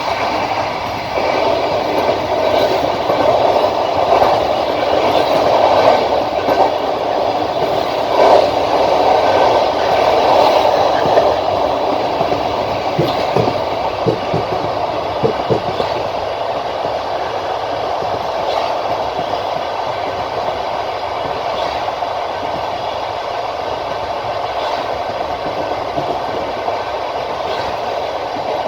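Passenger train running along the track, heard from the carriage window: a steady rumble of wheels on rail, louder in the first part, with a cluster of short wheel knocks over rail joints about halfway through.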